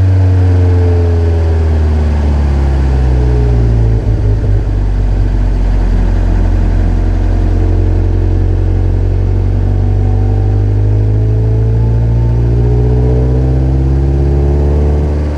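Exhaust note of a 1990 Toyota MR2 SW20's naturally aspirated four-cylinder through a stainless Mongoose exhaust with decat pipe. The revs fall over the first few seconds, there is a brief break about four seconds in, and then the revs climb steadily for the rest.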